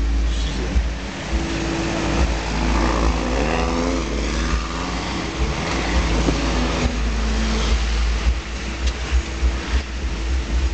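Off-road vehicle engines over a deep rumble: a steady engine hum, and an engine revving up with rising pitch from about three to five seconds in as an off-road buggy powers through the creek and up the bank.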